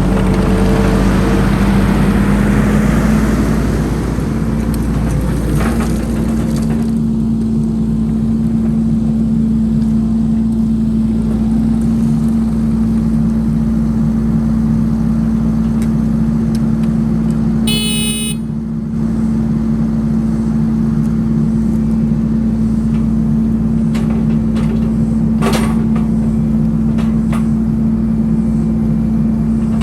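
Chainsaw on a chainsaw mill running at high revs while ripping a log lengthwise. The engine note rises over the first few seconds, then holds steady under load. About two-thirds through there is a brief high-pitched tone.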